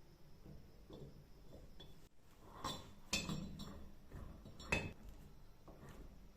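Small metal parts clinking and knocking as they are handled, with three sharp clinks: about two and a half seconds in, at three seconds, and near five seconds. The second and third are the loudest.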